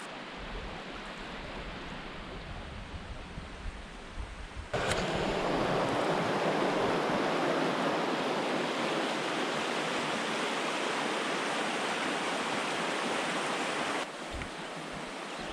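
Rushing river water of the Peshtigo River at McClintock Rapids, a steady roar. It jumps suddenly louder about five seconds in and drops back near the end.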